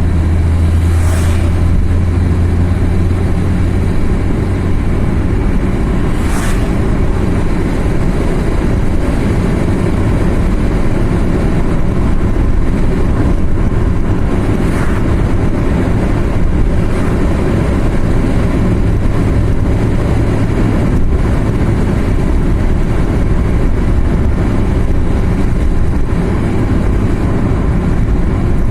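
A car driving along a mountain highway: steady engine and tyre noise on the road, with a low engine drone that is strongest in the first few seconds. There are brief whooshes about a second in, about six seconds in and about fifteen seconds in.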